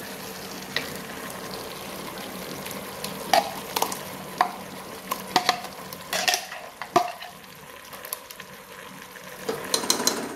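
Chicken and potato pieces sizzling in a pressure cooker as thick ground masala paste is scraped in, with a spoon clicking and knocking against metal several times in the middle.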